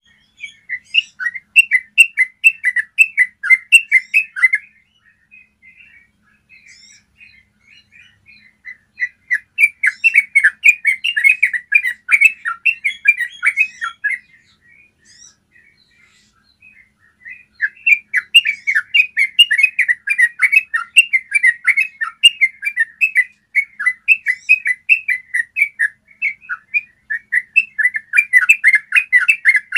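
Yellow-vented bulbul singing long, rapid rolling phrases of clear, chattering notes. The song comes in runs several seconds long, broken by short pauses.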